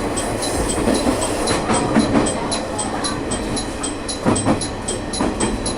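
A diesel local train running along the line, its wheels clacking over rail joints several times against a steady running noise. A fast, even ticking of about four a second runs underneath.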